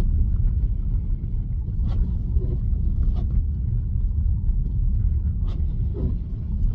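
Steady low tyre and road rumble heard inside a Tesla's cabin as it drives slowly over a snowy road, with a few faint, irregular ticks.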